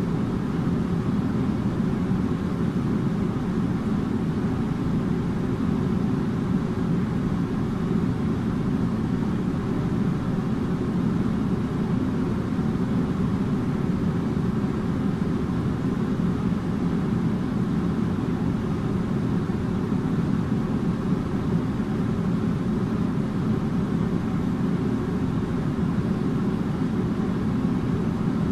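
Air conditioner running steadily: an even, low-pitched rush of moving air with a faint steady hum.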